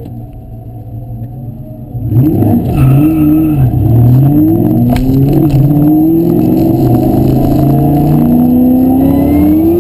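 2003 Ford Mustang SVT Cobra's supercharged 4.6-litre V8, heard inside the cabin, running low for about two seconds and then launching at full throttle just after 2 s in. The revs climb and drop several times as the driver shifts up through the manual gearbox.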